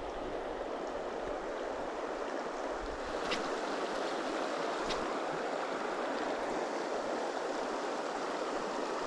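Shallow riffle of a trout stream rushing steadily, with two brief sharp ticks about three and five seconds in.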